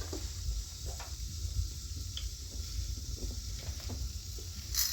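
Steady hiss over a low rumble, with a few faint clicks and knocks.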